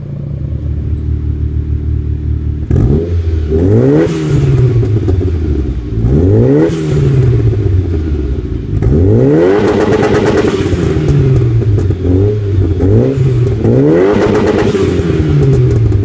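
Engine idling steadily, then, a few seconds in, a turbocharged Vauxhall Cavalier SRi's engine is revved hard at the exhaust, about six times in a row, each rev rising and falling back.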